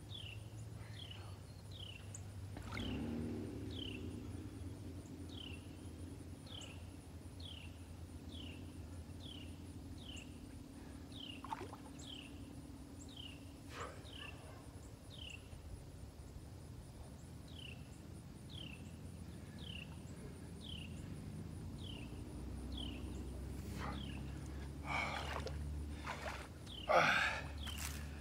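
Outdoor ambience by a pond: a bird repeating a short falling chirp about one and a half times a second, which stops about two-thirds of the way through, over a steady low rumble. A few louder rustling noises come near the end.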